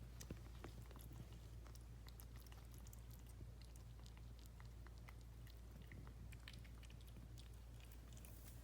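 Faint, irregular small wet clicks and smacks from a mother cat and her newborn kittens, over a low steady hum.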